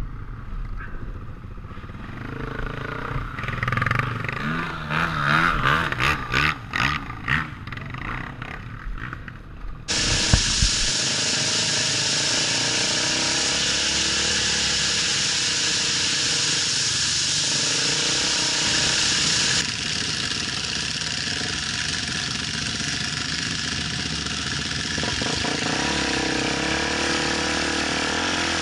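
Off-road motorcycle engines revving and rising and falling in pitch. About ten seconds in, the sound cuts abruptly to a steady, louder engine drone with a rushing noise over it.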